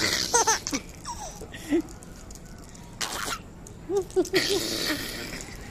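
A person laughing: a quick run of pitched ha-ha syllables at the start, then breathy gasps, and another short laughing burst about four seconds in.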